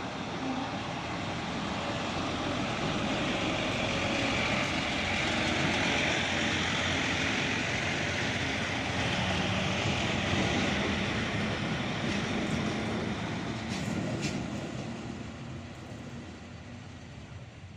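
Passenger train running on the rails, heard from a coach window: a steady rushing of wheels and passing air. It swells through the middle and fades away over the last few seconds.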